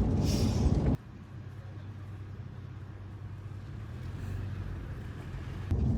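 Vehicle running: loud road and engine noise, then about a second in an abrupt drop to a quieter, steady low engine hum, which jumps back up to loud road noise near the end.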